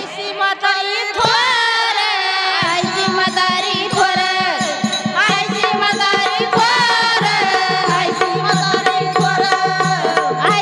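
Devotional bhajan music: a sung melody over a quick, steady hand-drum rhythm that comes in about two and a half seconds in.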